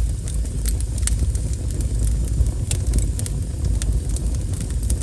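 Wood fire burning: a steady low rumble of flame with frequent sharp crackles and pops from the burning wood, scattered irregularly.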